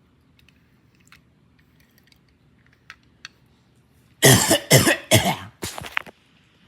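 A person coughing four times in quick succession, loud against a quiet room. Before the coughs there are a few faint clicks.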